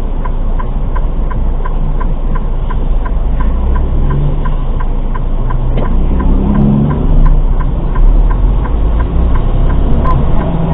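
Steady low rumble of a vehicle engine and road noise, with an even ticking about one and a half to two times a second.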